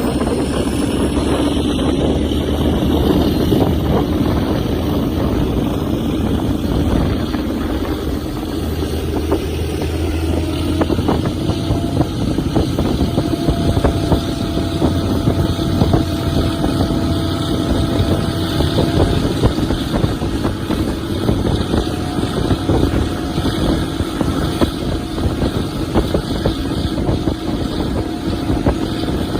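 Diesel train running past close by: a steady engine drone with dense rattling wheel and rail noise.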